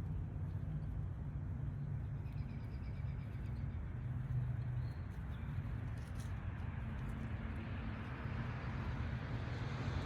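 Steady low droning hum, mechanical-sounding, with a few faint high chirps about a third of the way in.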